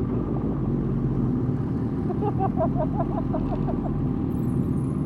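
Motorcycle engine running at parade pace under steady wind rumble, heard from the rider's seat of a Suzuki GSX-R 1000. About two seconds in comes a quick run of about ten short rising chirps, roughly six a second.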